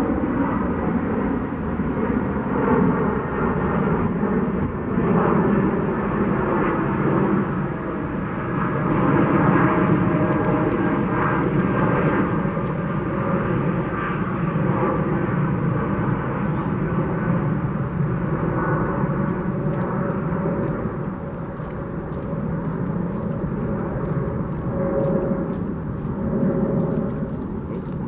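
A steady, fairly loud rumble of distant engine noise.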